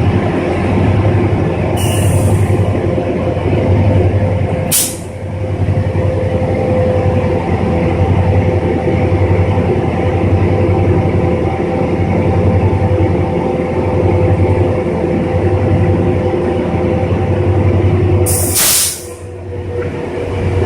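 Train at a station: a steady, loud drone with several held tones over a pulsing low rumble, broken by three brief sharp noises about two seconds in, near five seconds and near the end.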